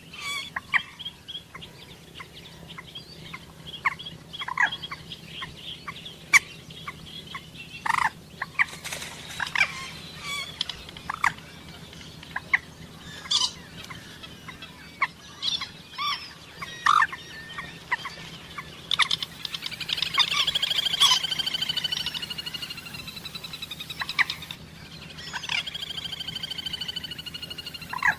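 Common moorhens calling: scattered short, sharp calls, with a long rapid chattering series about two-thirds of the way in that slowly falls in pitch, and another one near the end.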